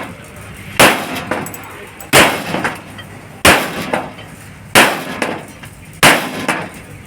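Heavy hammer blows on metal in a slow, even rhythm: five loud strikes about 1.3 seconds apart, each followed by a lighter tap, as in hammering steel during fabrication of a tractor trolley.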